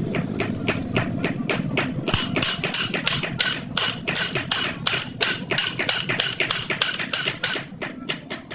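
Hammer striking the metal of a truck drive shaft's universal joint in a quick, even run of blows, about five a second.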